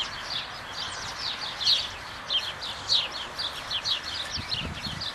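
Small birds chirping busily, many short high chirps each second that slide downward, over a steady outdoor hiss.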